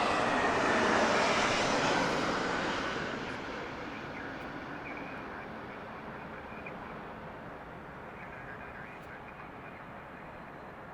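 Jet aircraft engine noise passing close by: a loud, even rush in the first two seconds that then fades steadily as the plane moves away.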